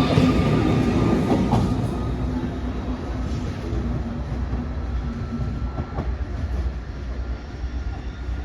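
Train moving along the station tracks: a high wheel squeal fades out in the first couple of seconds, leaving a steady rumble of wheels and running gear that slowly dies down.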